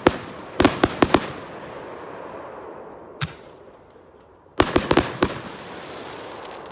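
Fireworks going off in quick volleys of sharp bangs, each volley trailing off in a fading hiss: a cluster at the start, a single bang about three seconds in, and another rapid cluster near five seconds.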